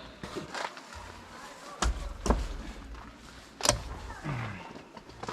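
Gear being handled, with three sharp knocks, two close together about two seconds in and one more near the end, over a low rumble.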